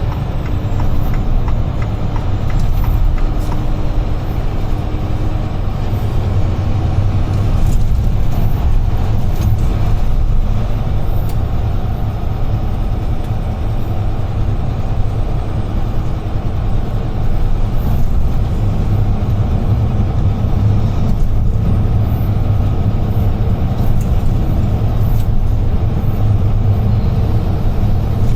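UD Trucks Quon heavy truck's diesel engine and road noise as it cruises, a steady low drone heard from inside the cab.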